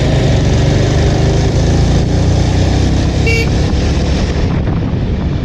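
Bajaj Avenger's single-cylinder engine running on the move, with the steady noise of riding, and a short vehicle horn toot about three seconds in.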